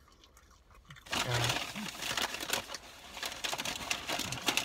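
A person chewing french fries close to the microphone: dense, crackly, clicky mouth noises that start about a second in, with a brief hum among them.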